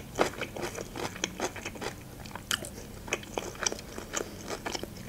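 A person chewing food with the mouth closed, making irregular wet clicks and smacks.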